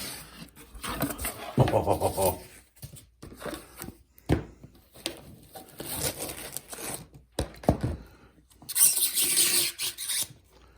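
Handling and unpacking a shipping package holding new headlights: irregular scraping, rustling and knocks, with a short squeak about two seconds in and a burst of crinkling or tearing packaging near the end.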